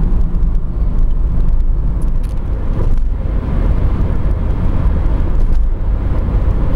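A car driving on a road: steady engine and tyre rumble, strongest in the low end.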